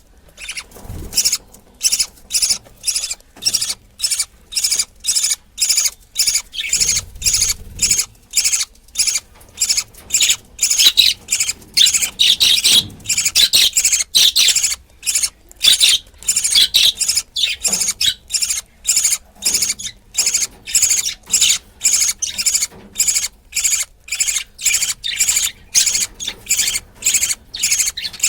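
Budgerigar chick's raspy, high-pitched begging calls, repeated in a steady rhythm of about two to three a second while its mother feeds it.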